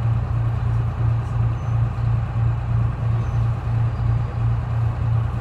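GMC New Look bus's Detroit Diesel 6V71 two-stroke V6 diesel running steadily, a strong low drone that pulses evenly about three times a second.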